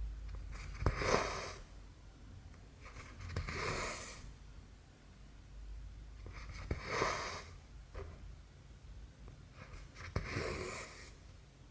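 Cotton embroidery thread being drawn through cross-stitch fabric. There are four soft swishes about three seconds apart, most coming just after a small click of the needle.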